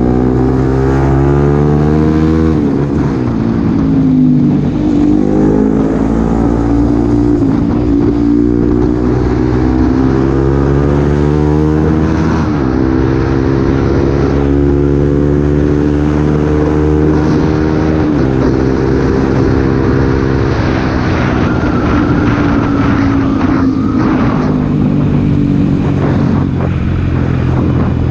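Bajaj Pulsar NS200 single-cylinder engine under way, its pitch climbing steadily as it pulls and dropping sharply at each upshift, about four times.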